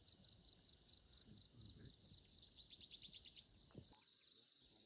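A steady, high-pitched insect chorus, with a quicker trill about three seconds in.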